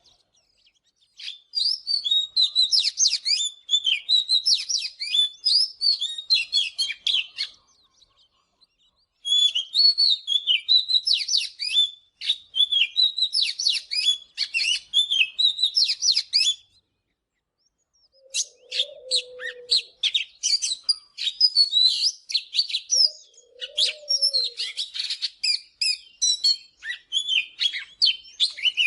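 Oriental magpie-robin singing: three long runs of rapid, varied high whistles and chatter, separated by short pauses.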